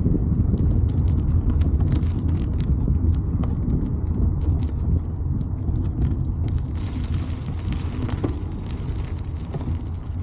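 Steady low wind rumble on the microphone while riding a bike, with scattered light clicks and rattles.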